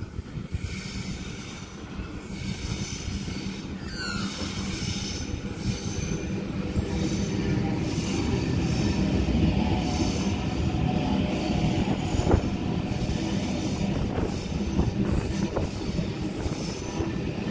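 Double-deck electric passenger train coming round a curve and running in along the platform, its rumble growing louder over the first eight seconds. High wheel squeals come and go, one gliding briefly about four seconds in, and there is a single sharp knock about twelve seconds in.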